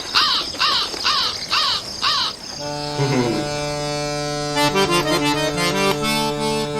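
A bird chirps five times in quick succession, then a reed instrument starts a Turkish folk tune: a held drone that slides up into pitch, with a melody of short notes over it.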